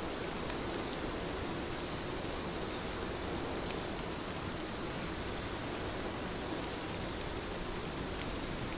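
Heavy rain falling steadily, an even hiss with scattered sharp drop ticks.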